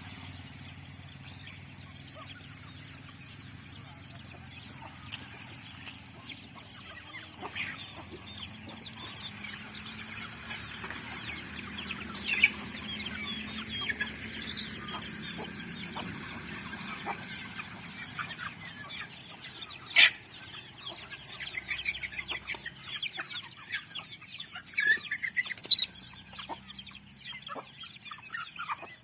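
Chickens clucking and calling, many short calls overlapping, growing busier in the second half, with a few louder single calls standing out. A faint low steady hum lies underneath in the first half.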